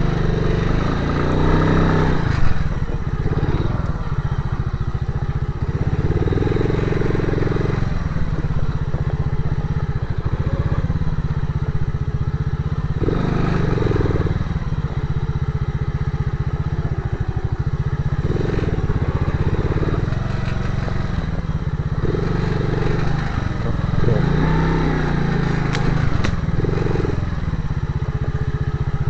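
Motorcycle engine running while riding, its revs rising and falling now and then.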